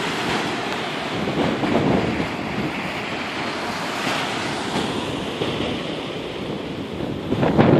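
Rough Lake Michigan waves surging in gale-force wind, with the wind buffeting the microphone; a stronger gust hits the microphone near the end.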